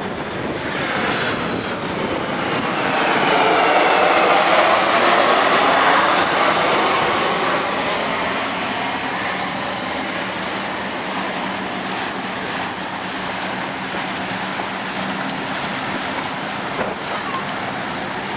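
Jet engines of a KC-135 Stratotanker flying past overhead: a loud rushing roar that swells to its peak about four to five seconds in, then slowly fades while staying strong.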